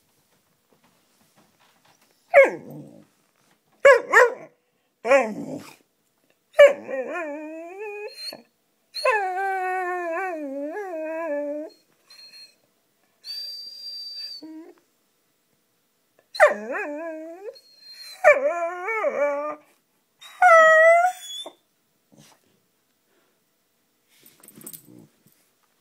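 Beagle barking and howling to get someone to play: four short sharp barks, then a run of drawn-out howls whose pitch wavers, the longest about three seconds. After a pause come more howls, and a faint one near the end.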